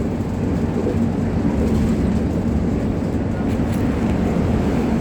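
Steady rumble of a moving bus heard from inside the cabin: engine drone and road noise.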